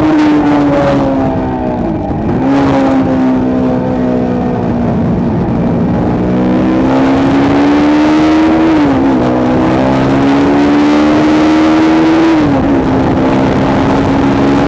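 Motorcycle engine under load on a race track, its pitch climbing and then dropping sharply three times as it is shifted up through the gears.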